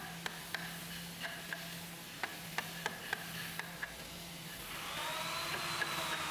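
Workshop sounds: light, sharp taps or clicks come a few times a second over a steady low hum. About three-quarters of the way in, a machine whine starts up, its pitch rising a little and then slowly easing down.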